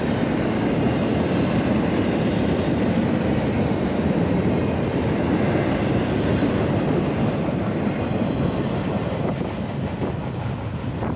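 Freight train rolling past, a steady rumble and rattle of cars on the rails that grows a little quieter near the end.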